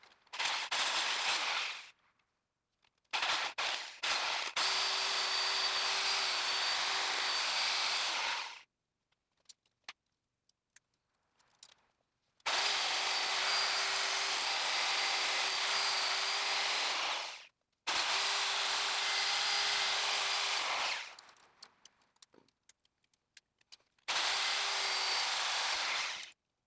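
Reciprocating saw cutting into a seized steel suspension bolt, in five runs of a few seconds each with short pauses between, a steady whine running through each run. The blades are making little headway on the bolt and are being worn out by it.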